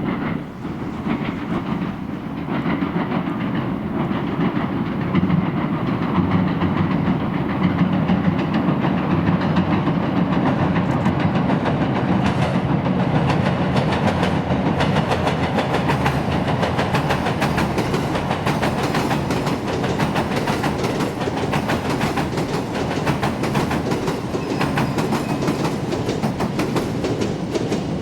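An electric multiple-unit train crossing a railway bridge: a steady rumble of wheels on rails with a fast clatter of clicks from the wheels passing over the rail joints.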